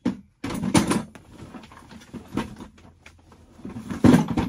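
Handling noise from a Milwaukee ProPress press tool being worked on: knocks and clunks with rustling between them as the jaw head is swapped out. The loudest knock comes near the end.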